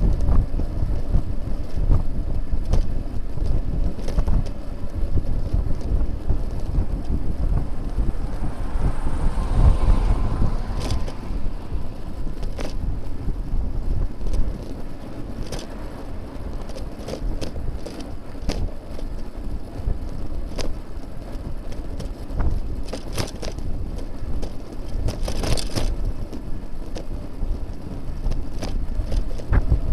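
Wind buffeting the microphone of a bicycle-mounted camera while riding on a road, with sharp rattles and knocks from the bike over the road surface. A motor vehicle swells past about nine to eleven seconds in.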